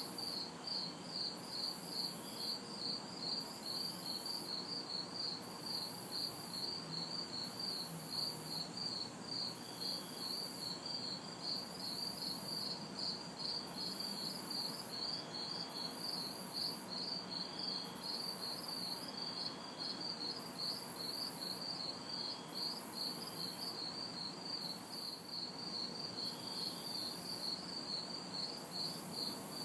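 Night chorus of crickets chirping steadily, about three chirps a second, with a second, higher-pitched insect chorus pulsing on and off about once a second. A faint low hum of distant city traffic lies underneath.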